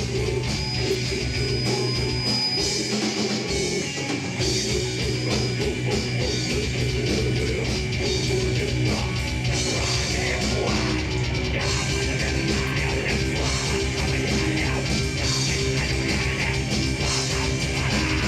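Rock band playing loudly and without a break on drum kit and guitars, with a rapid, driving beat.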